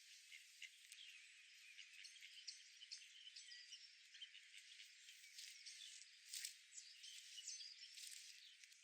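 Faint, busy chirping and twittering of small birds: many short high calls overlapping, with a couple of brief louder rustling bursts a little past the middle.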